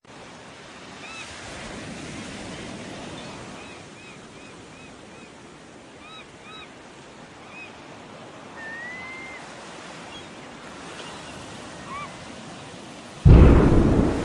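Sea surf washing steadily, with short repeated chirping calls of birds over it in the first half and one rising whistled call in the middle. About a second before the end a sudden loud rush of noise takes over.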